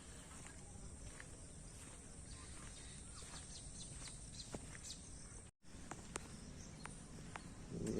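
Faint outdoor ambience with scattered light ticks and a few faint chirps; the sound cuts out completely for a moment a little past halfway.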